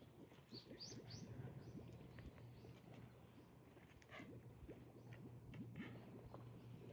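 Faint birds chirping and calling a few times over a low steady hum in very quiet harbour-side ambience.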